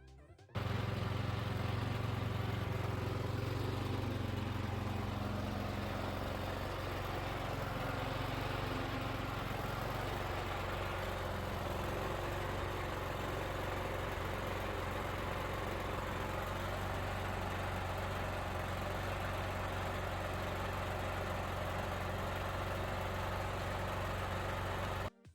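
A steady engine-like running sound: a constant low hum under an even hiss, starting and stopping abruptly.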